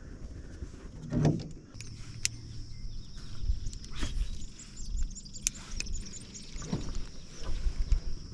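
Outdoor ambience from a canoe on a lake: a steady high-pitched drone under scattered short chirps, with a few sharp clicks and low knocks.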